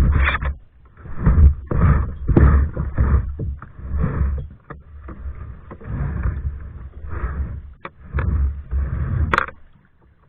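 Kayak paddle strokes dipping and splashing in a loose rhythm, roughly one a second, over a low rumble on the microphone; the strokes fade out near the end.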